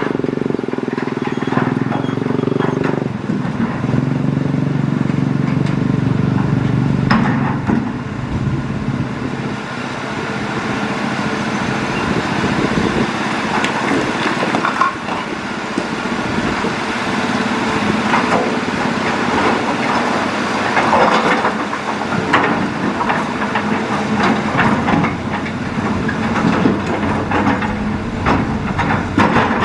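Hitachi Zaxis hydraulic excavator's diesel engine running under load, its pitch shifting about three seconds in, with repeated knocks and scrapes of the bucket working stones and gravel in the riverbed.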